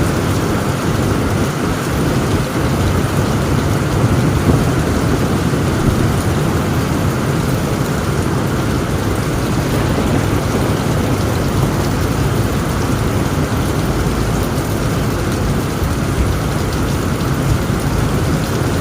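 Heavy rain falling steadily on a tent roof, with a continuous low rumble of thunder underneath.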